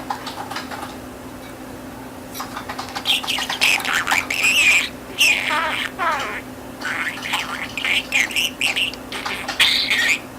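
Pet budgerigar chattering: a fast run of warbled chirps, squawks and babbling glides, faint at first and louder from about three seconds in.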